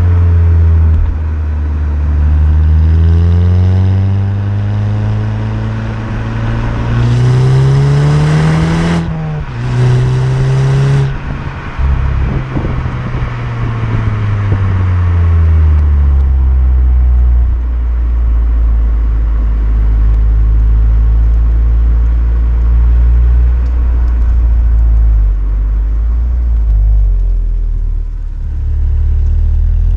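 VW Golf 6 GTI's turbocharged 2.0 TSI four-cylinder pulling hard, its pitch rising for several seconds, dipping briefly at a gear change about nine seconds in, then rising again with a loud hiss over it. The engine speed then falls away as the car slows, and it runs low and steady through the second half.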